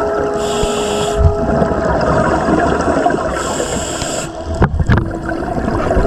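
Underwater audio of a scuba diver's regulator: two hissing inhalations about three seconds apart, with exhaled bubbles gurgling between them and a few sharp clicks near the end, over a steady low hum.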